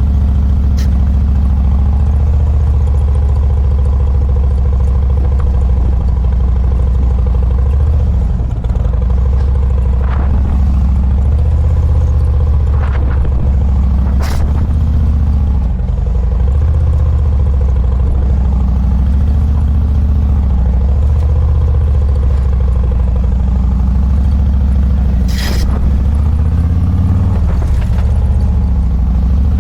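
Motorcycle engine running at low speed through tight cone manoeuvres, its revs dipping and picking up again several times. Several sharp clicks sound over it.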